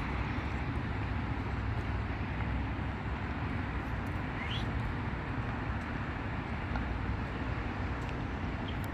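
Steady low background rumble of outdoor noise, with one short rising chirp about four and a half seconds in.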